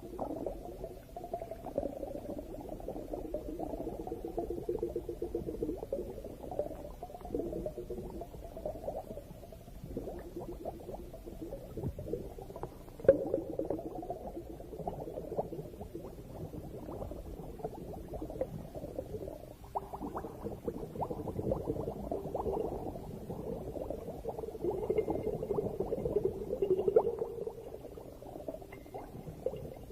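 Underwater bubbling and gurgling from a scuba diver's exhaled regulator bubbles, swelling and ebbing in surges, with one sharp knock about thirteen seconds in.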